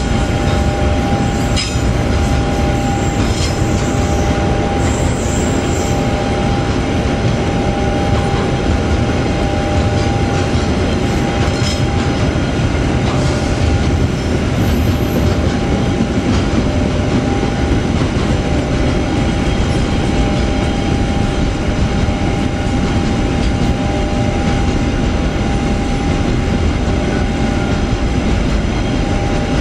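Long container freight train rolling past. The wheels of its flatcars make a steady, loud rumble on the rails, with a steady high tone running through it.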